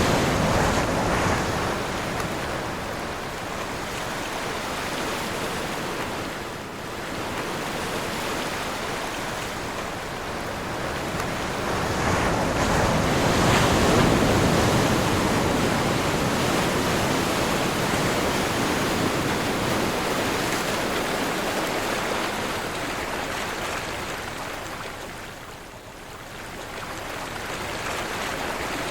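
Ocean surf breaking and washing in, with wind blowing. The roar swells and falls away in slow surges, easing briefly twice.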